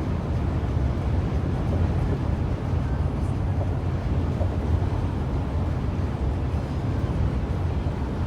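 Steady low rumble of a car driving at speed, road and engine noise heard from inside the vehicle.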